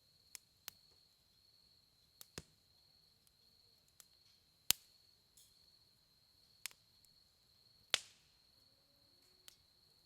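Firewood burning in a campfire, popping and cracking in sharp, irregular snaps, about nine of them, two louder ones a little under halfway and about four-fifths of the way in.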